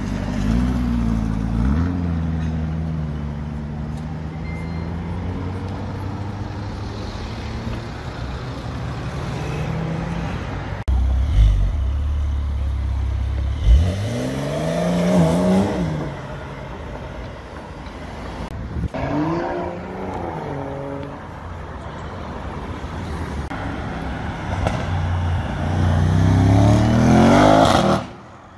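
Supercar engines revving and accelerating in turn: a Lamborghini Urus's twin-turbo V8 idling with a blip of revs near the start, then a Porsche 911 Cabriolet's flat-six and other cars pulling away in a series of rising revs, loudest and longest near the end.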